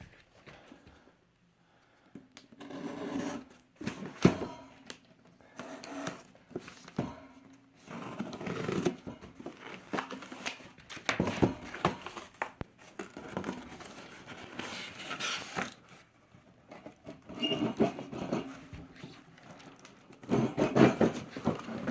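A sealed cardboard box being opened and unpacked by hand: irregular scraping and rustling of cardboard and packing paper, with a sharp knock about four seconds in.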